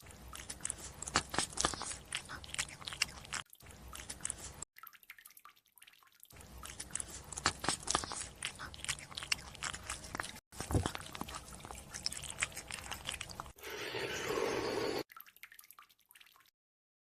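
Close-up chewing and crunching food, heard as several short clips of wet, irregular crunches broken by brief silences. Near the end comes about a second of steadier rushing noise.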